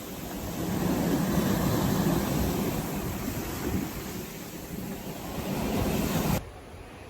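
Sea waves breaking and washing on a beach, with wind buffeting the microphone; the surf swells about a second in. About six seconds in the sound drops abruptly to a quieter, duller wash.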